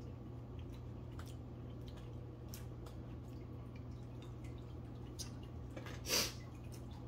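A man eating sauce-dipped crinkle-cut fries: faint wet mouth clicks of chewing, over a steady low hum. About six seconds in comes one short, louder breathy noise.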